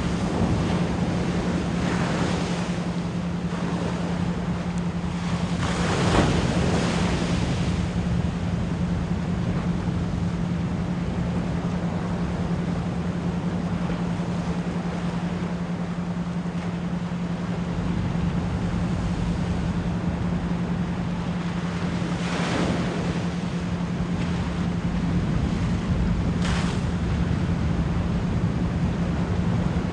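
Ocean surf washing steadily, with a few louder waves surging about 2, 6, 22 and 26 seconds in, under a constant 174 Hz pure tone humming low beneath the water, pulsed as an isochronic beat.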